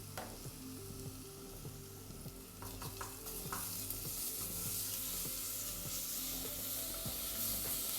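Onions and freshly added ginger-garlic paste frying in hot oil in a pressure cooker, sizzling steadily and being stirred. The sizzle grows louder about three seconds in, with a few knocks of stirring around then.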